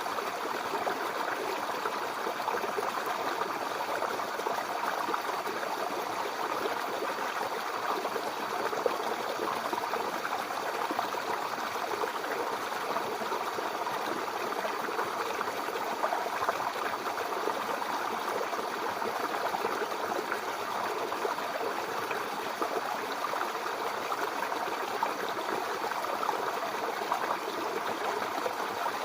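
Mountain river flowing over rocks: a steady rushing and babbling of water.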